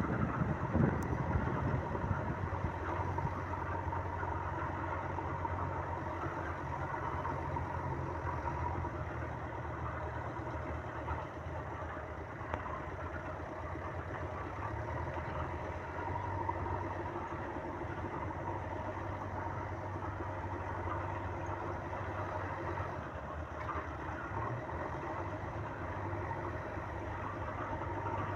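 JCB 3DX backhoe loader's diesel engine running steadily at an even speed.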